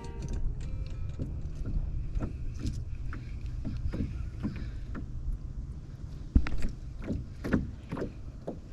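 Canoe on open water in wind: a steady low wind rumble on the microphone, with scattered knocks and taps against the hull, the sharpest about six seconds in.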